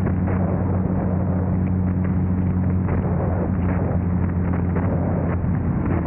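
Car engine running at a steady, unchanging pitch under wind rush, with scattered light crackles.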